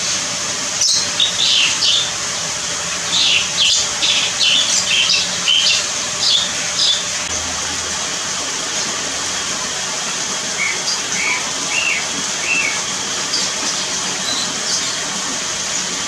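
Birds calling: a quick run of short high chirps through the first half, then a few lower single notes a little later, over a steady hiss of a small stream.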